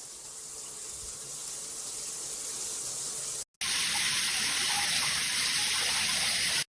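Handheld shower head spraying water: a steady rushing hiss. A cut about halfway in, after which the spray is brighter and hissier.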